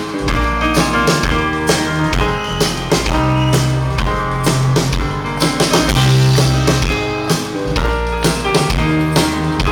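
Live folk-rock band playing an instrumental passage between verses: guitars and a bass line over a steady, driving drum beat.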